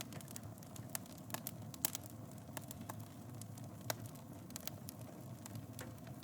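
Wood fire burning in a fireplace: a steady low rumble of flames with irregular sharp crackles and pops, the loudest pops a little under two seconds in and near four seconds.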